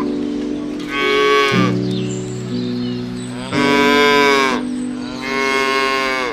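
Cattle mooing: three drawn-out calls about a second long each, over background music.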